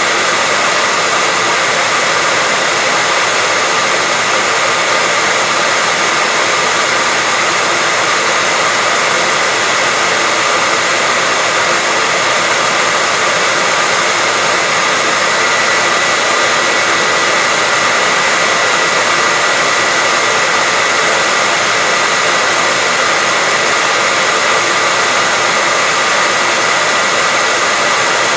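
Hair dryer running steadily: an even rushing of air with a faint whine from the motor and fan.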